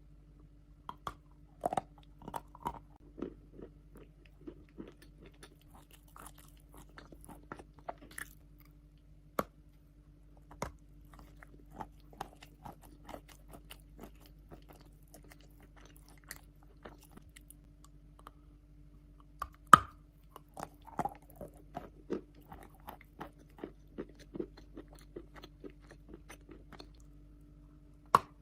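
Wet chalk being bitten and chewed close to the microphone: soft, irregular crunches with a few sharper bites, the loudest about two-thirds of the way through. A faint steady hum underneath.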